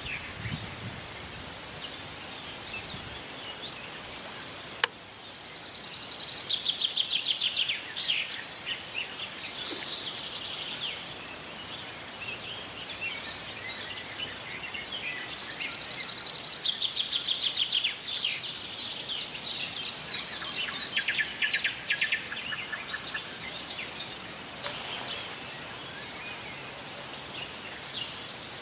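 Wild songbirds singing over a steady outdoor hiss, with two long rapid trills and scattered chirps. There is a sharp click about five seconds in.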